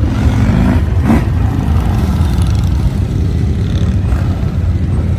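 Motorcycle engines running in street traffic, a steady loud low rumble with a brief louder rise about a second in.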